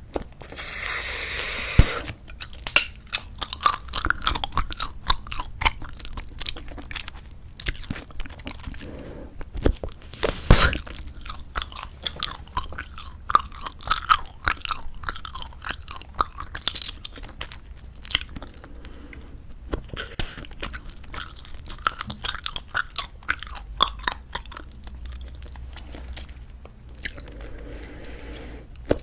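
Close-miked chewing of soft squeeze-tube bubblegum: continuous irregular wet smacking and clicking of the mouth, with a few louder sharp snaps.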